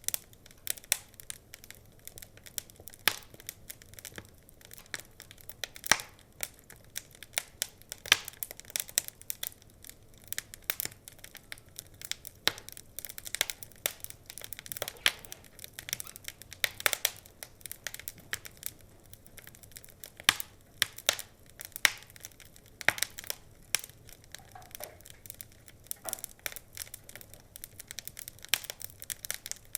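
Wood fire crackling: irregular sharp pops and snaps, some much louder than others, over a soft steady hiss.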